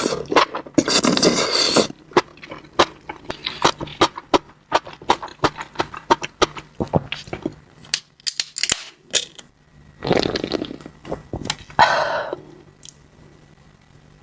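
Close-miked eating of seafood: wet chewing and biting with many sharp clicks and crunches, and a couple of longer noisy passages, growing quieter near the end.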